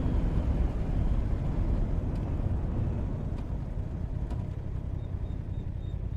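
Motorcycle being ridden, engine and wind noise on the mic fading steadily as the bike slows down. Faint, quick high beeps sound near the end.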